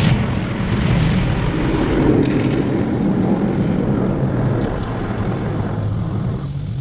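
Automatic tunnel car wash machinery running, heard from inside the car: a loud, steady rushing noise over a low rumble, easing slightly near the end.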